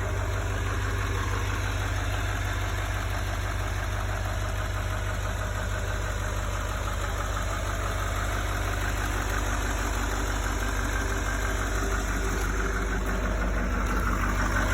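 2019 Chevrolet Silverado 3500 HD's 6.6-litre Duramax turbo-diesel V8 idling steadily.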